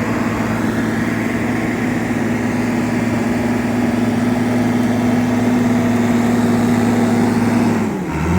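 Case 850K crawler dozer's diesel engine running steadily at constant revs, its pitch dropping near the end as it throttles down.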